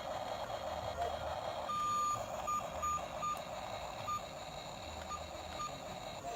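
Short electronic beeps, one longer and then several short ones at uneven gaps, over a steady buzzing engine-like hum.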